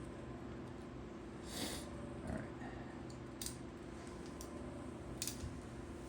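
Light handling noise as the wires are fitted into an extension cord plug: a brief rustle about a second and a half in and a few short clicks, over a steady low hum.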